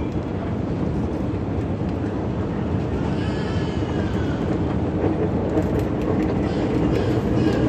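c2c electric passenger train running along the line with a steady rumble. A faint whine swells and fades about halfway through.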